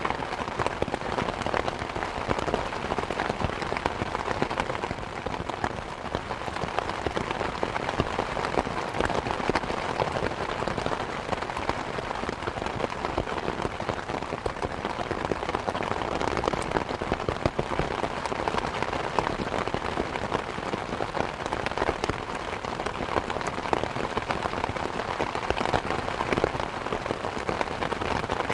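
Steady rain falling, with a wood fire crackling in a fireplace: many small quick pops and ticks over the even hiss of the rain.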